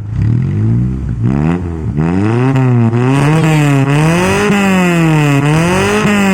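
Mazda Elite '86 engine revved through an aftermarket HKS exhaust, the throttle blipped over and over so the note climbs and drops repeatedly, a few short blips at first, then steady rise-and-fall revving.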